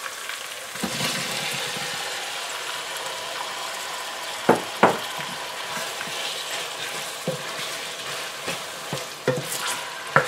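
Diced tomatoes sizzling in hot oil with fried onions and chili pepper in a stainless steel pot as they are tipped in and stirred: a steady frying hiss that swells about a second in, with a few sharp knocks of the utensil against the pot, the two loudest about halfway through.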